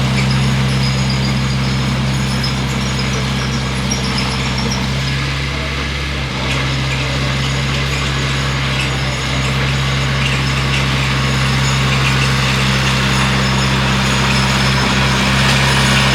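Bulldozer's diesel engine running steadily under load as it pushes earth, with a deep, even drone that eases briefly about six seconds in.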